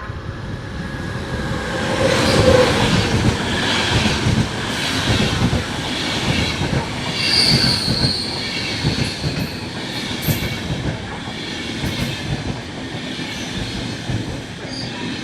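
A train rolling through a station, its wheels clattering in a steady run of knocks over rail joints and points. Brief high-pitched wheel squeals come in about halfway through.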